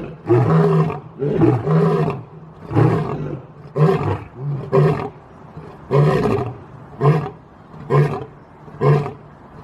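Asiatic lion roaring: a series of about eleven short roars, roughly one a second, spaced a little wider toward the end.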